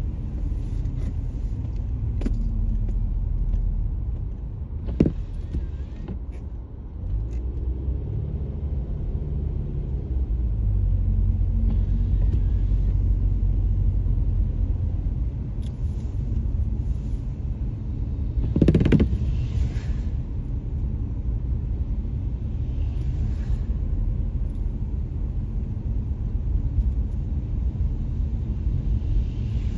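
Road noise heard inside a moving car: a steady low rumble of tyres and engine. A sharp knock comes about five seconds in, and a louder one comes near nineteen seconds.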